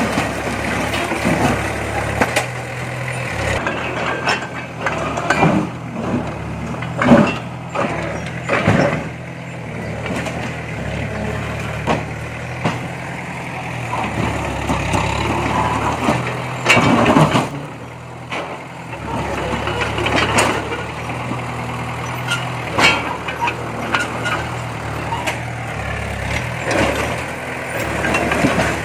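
Heavy earthmoving machine's diesel engine running steadily, with frequent sharp clanks and knocks over it and a louder noisy stretch about seventeen seconds in.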